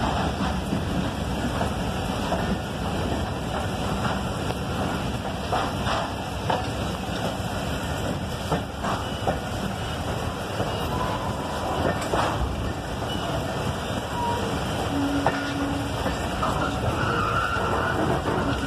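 Passenger train moving slowly, heard from an open door of a coach: a steady rumble of the running gear and air noise, with a few clicks of the wheels over rail joints.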